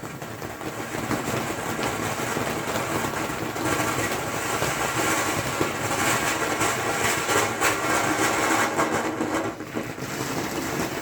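Firework fountains spraying sparks, a steady loud hiss full of fine crackling, easing off slightly near the end.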